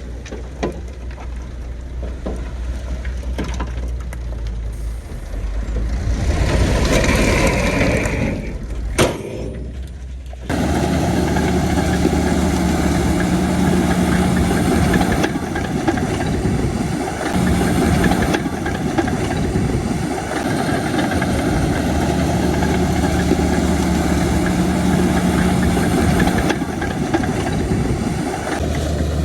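Diesel engines of heavy earthmoving machines running. About ten seconds in, the sound jumps suddenly to a louder, steadier engine with a low hum.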